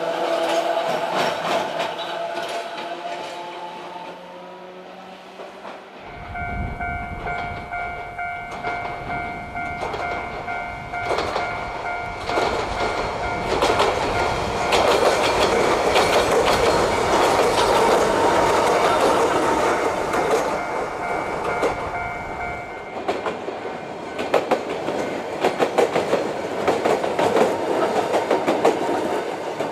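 Small 762 mm narrow-gauge electric trains of the Yokkaichi Asunarou Railway running past: a motor whine falling away at first, then a level-crossing alarm ringing steadily while a train rumbles by. Near the end the wheels click over rail joints about twice a second.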